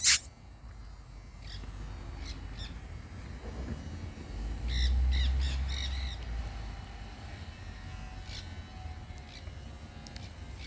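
Monk parakeets calling: scattered short squawks, with a cluster of rapid chattering calls about five seconds in.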